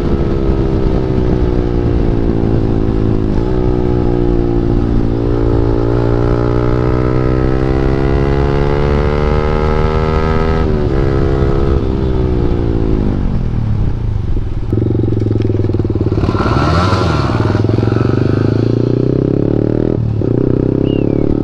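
KTM Duke 390's single-cylinder engine through an Akrapovic exhaust with the dB killer removed, under way: the engine note climbs for several seconds, drops sharply about eleven seconds in, falls away and then settles to a steady note.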